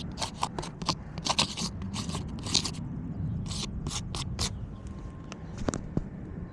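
A run of short scraping, crunching sounds on gritty asphalt roof shingles, quick and irregular, which thin out after about four and a half seconds.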